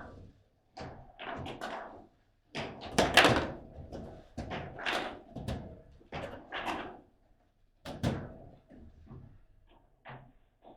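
Table football game in play: irregular knocks and thuds as the ball is struck by the figures on the rods and bangs against the table, with a louder clack about three seconds in.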